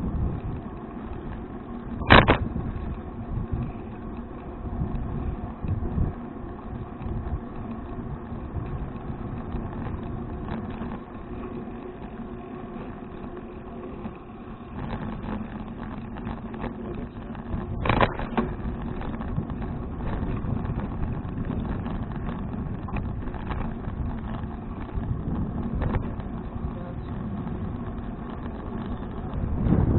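A touring bicycle rolling along a road, with steady tyre and wind rumble on the action camera. Two sharp clicks come about two seconds in and again about eighteen seconds in.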